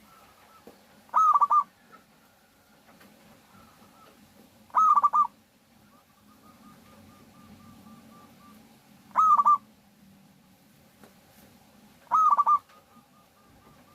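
Zebra dove (perkutut) cooing: four loud calls every three to four seconds, each a quick run of a few notes, with fainter runs of short coos in between.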